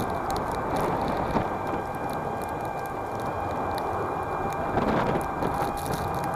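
S12X Vita Monster electric mobility scooter driving through snow: a steady motor whine over constant tyre and wind noise, with scattered small clicks.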